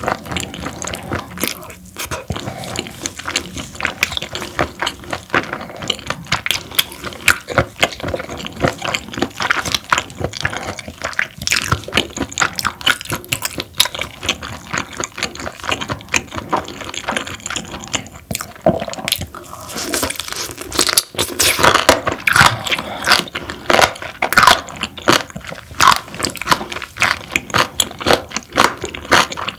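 Close-miked chewing of parboiled webfoot octopus: a dense run of quick wet clicks and smacks from the mouth. It gets busier about two-thirds of the way through.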